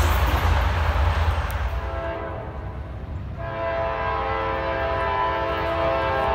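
Rumble of a passing train fading away, then a locomotive's multi-chime air horn sounding a held chord of several notes, faint at first about two seconds in and louder from about three and a half seconds on.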